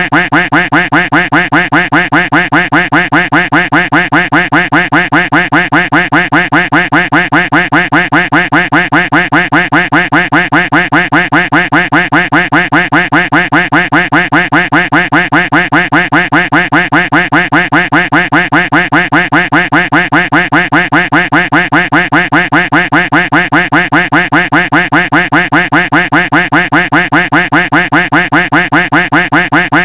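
Duck quack sound effect looped without a break: loud quacks repeated in quick, even succession.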